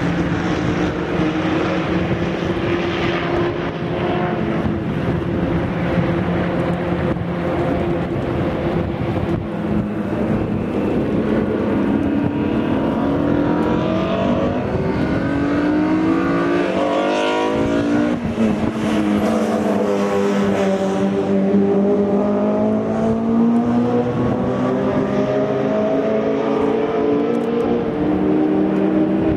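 Race cars on a circuit running with loud open exhausts, several engines overlapping as they pass and rev up and down through the gears. The pitch climbs steeply in the middle, drops, then climbs again near the end.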